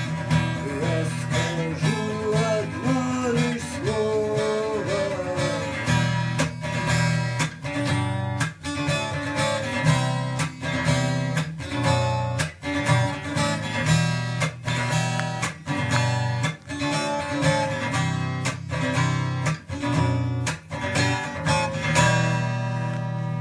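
Acoustic guitar strummed in a steady rhythm, ending on a last chord that rings out near the end.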